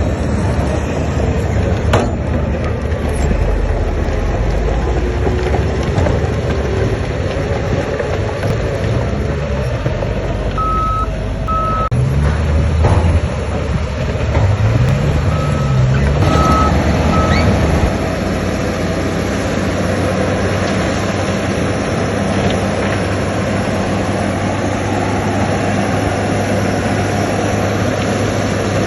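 Heavy earthmoving machines' engines running, the engine note rising and falling as they work between about twelve and eighteen seconds in and then settling to a steady run. A reversing alarm beeps twice about eleven seconds in and three times a few seconds later, and there is a sharp clank about two seconds in.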